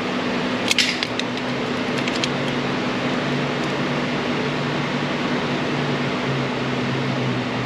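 Steady fan-like hum and hiss from a running machine, with a light metallic click about a second in and a couple of faint ticks soon after.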